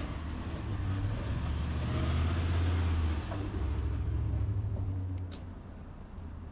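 A motor vehicle passing close by: a low engine rumble and tyre noise swell to a peak in the middle, then fade about five seconds in.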